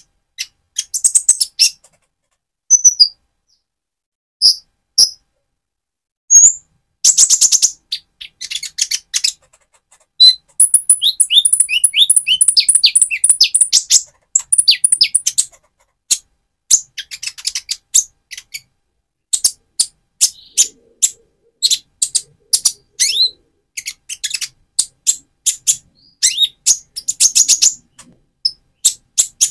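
Purple-throated sunbird (Leptocoma sperata), a young bird still in mottled plumage, singing: bursts of very high, sharp chirps and quick trills separated by short pauses, with a longer run of rapid trilling in the middle.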